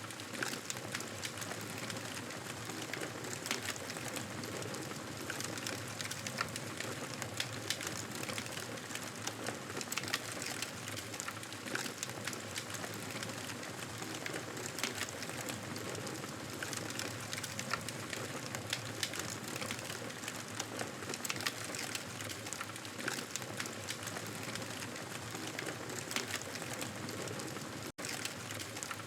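Wood fire burning in a fireplace, crackling and popping steadily with many small sharp snaps over a soft hiss. The sound drops out for an instant near the end.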